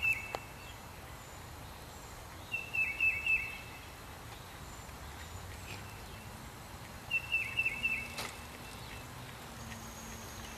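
A songbird repeating the same short song phrase about every four to five seconds: a brief held high note followed by three quick down-slurred notes. It plays over a low steady background noise, with one sharp click about eight seconds in.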